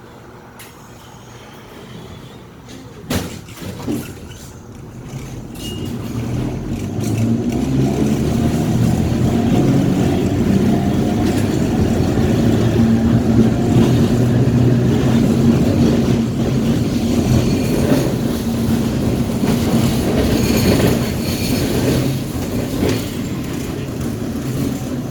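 Streetcar getting under way and running along the rails. Two sharp knocks come near the start, then a low rumble with a steady hum builds about five seconds in and holds.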